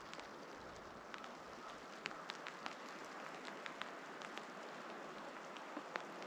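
Faint steady wind noise in a snowstorm, with scattered light ticks of snow striking close by.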